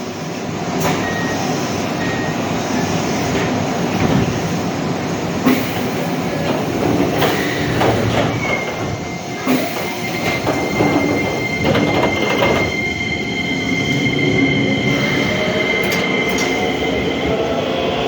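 A Keisei Main Line electric train moving at the station, its wheels clicking over the rail joints. A thin, high, steady squeal lasts several seconds in the middle, and near the end a motor whine rises in pitch as the train gathers speed.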